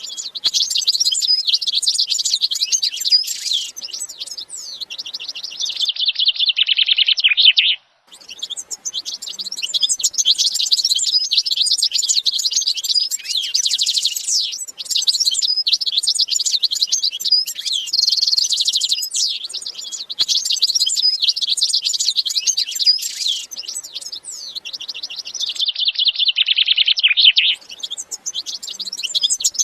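Many small birds chirping and twittering together in a dense, continuous chorus of high, quick calls, with a brief break about eight seconds in. The same stretch of chorus seems to come round again some twenty seconds later, as in a looped recording.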